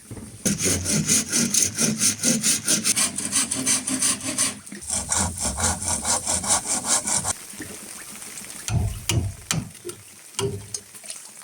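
Hand saw cutting through bamboo in quick, even back-and-forth strokes, about five a second, in two runs with a short pause between them. A few dull knocks follow near the end.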